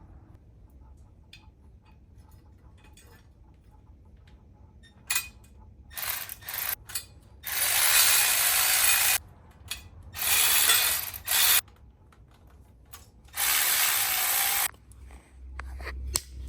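Hand ratchet wrench clicking as nuts are run onto engine motor-mount bolts: a few short runs, then three longer runs of a second or so each.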